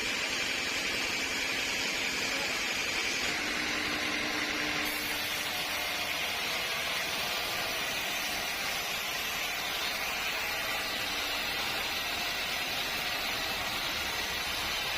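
Sawmill machinery running steadily: an even mechanical hum and hiss, with a faint high whine that fades out about five seconds in.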